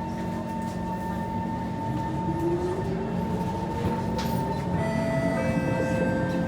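Kawasaki C151 electric multiple unit heard from on board as it accelerates away from a station. Its traction motor whine glides upward in pitch over a few seconds, over a steady running rumble and a set of steady electrical tones, and the noise grows slowly louder.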